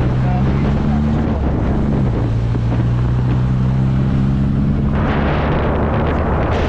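Classic car's engine droning steadily while driving, with road noise; the engine note shifts about two seconds in, and the rushing noise grows louder from about five seconds in.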